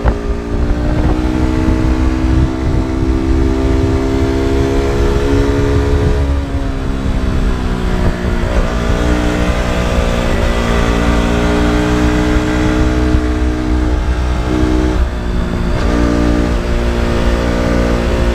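KTM RC 200's single-cylinder engine and exhaust under way on the road. The engine note slowly falls for about six seconds, dips, then holds fairly steady, with brief changes in pitch about fifteen and sixteen seconds in.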